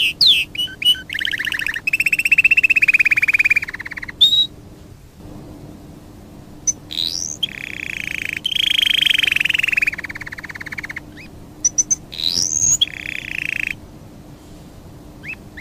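A bird singing: phrases of fast, buzzy trills, several a second or more long, broken by quick rising whistles, with short pauses between phrases.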